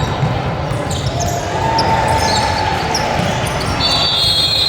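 Basketball game sounds: a ball bouncing on the court amid spectator chatter, with a high steady squeal starting near the end.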